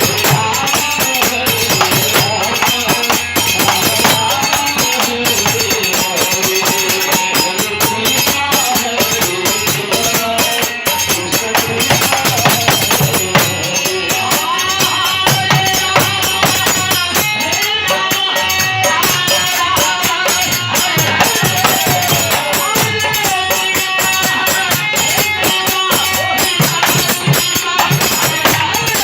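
Hindu devotional kirtan music: a wavering sung melody over fast, continuous jingling hand percussion like a tambourine.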